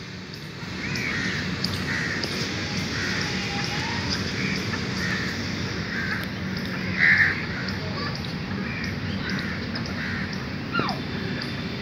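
Birds calling: short calls repeat roughly once a second, the loudest about seven seconds in, and a whistled note glides downward near the end, over a steady background noise.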